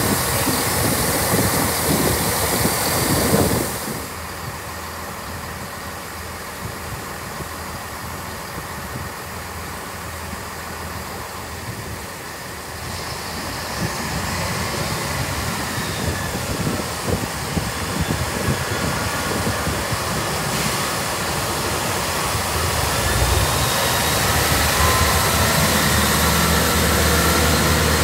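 Diesel passenger trains at a station platform. For the first four seconds a train runs past close by, with wheel and engine noise, and then the sound drops off suddenly. From about thirteen seconds in, another train's engine grows steadily louder with a rising whine and a deepening low rumble.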